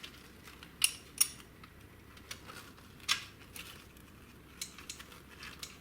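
Sharp metallic clinks and taps of hand tools and metal parts being handled, three louder clinks in the first three seconds and fainter ticks between.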